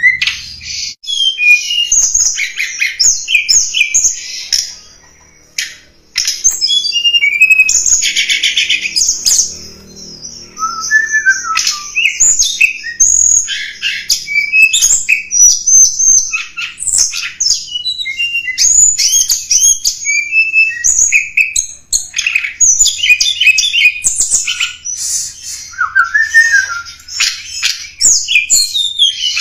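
Tledekan gunung songbird calling: a busy run of high, rapid chirps, trilled phrases and short squawky notes with quick up-and-down glides. It breaks off briefly twice, around five seconds in and again near ten seconds. It is a lure recording of the kind played to draw in wild tledekan.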